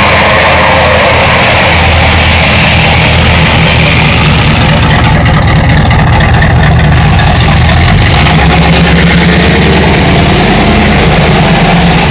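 1972 Ford F250's 360 cubic-inch V8 running steadily, heard through its 2 1/2 inch aluminized exhaust.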